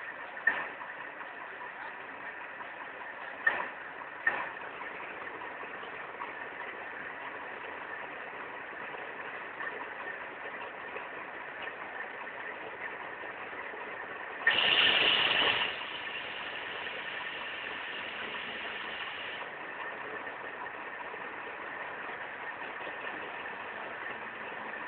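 Engine idling steadily. There are a few short clicks in the first five seconds, and a loud rush of noise about 15 seconds in that fades to a fainter hiss lasting a few more seconds.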